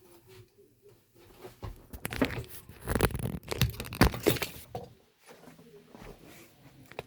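Close-up handling noise from a phone stand being set up and adjusted: a flurry of knocks, scrapes and rustling right at the microphone, loudest from about two to five seconds in.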